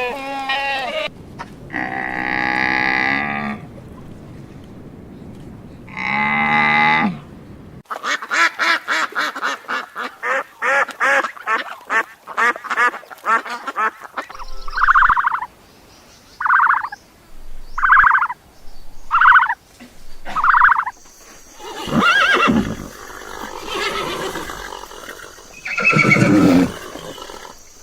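A succession of farm animal calls: two drawn-out calls, then a rapid run of short pulsed calls, then six short evenly spaced calls, and a denser mix of calls near the end.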